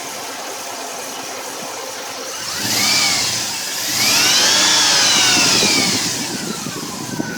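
Dodge Durango's 5.9-litre Magnum V8 idling rough, then revved twice: a short blip about two and a half seconds in and a longer rev about four seconds in, each rising and falling back to idle. The owner has already replaced the plugs, wires, distributor cap and idle air control valve without curing the rough idle.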